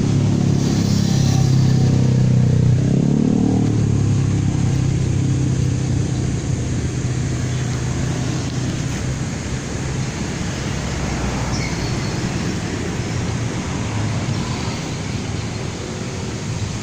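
Road traffic: a motor vehicle engine running close by for the first few seconds, then steady traffic noise.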